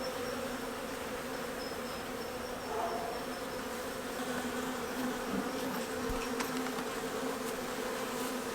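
Honey bees buzzing steadily in a loud swarm of wings around an open hive, with many bees in the air.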